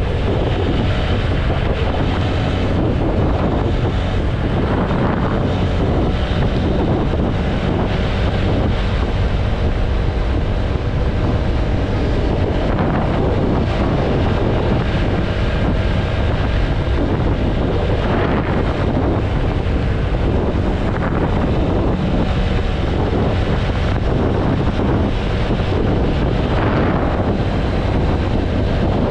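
Wind buffeting the microphone of a TVS Apache RTR 160 4V motorcycle riding at highway speed, a steady loud rush with the single-cylinder engine running underneath.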